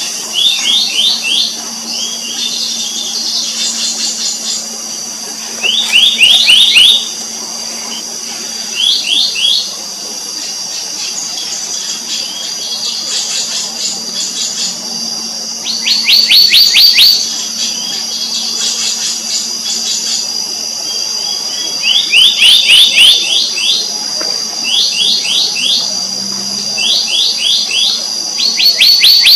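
Black-naped monarchs calling: short rapid series of ringing notes, each about a second long, repeated every couple of seconds, some series higher-pitched than others. A steady high insect drone runs underneath.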